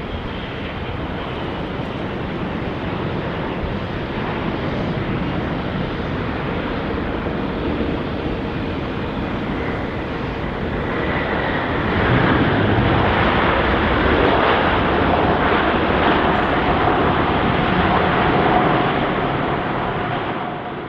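Airbus A380 jet engines during landing: a dense rumble with a faint steady whine, growing louder about halfway through.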